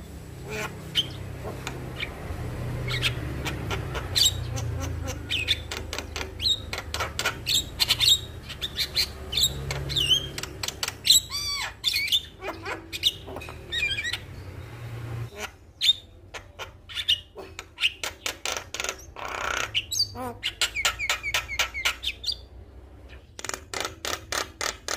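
Male Javan myna singing in full voice: a fast, varied stream of chirps, whistles and harsh squawks, with a short pause near the end. A low hum lies under the first half.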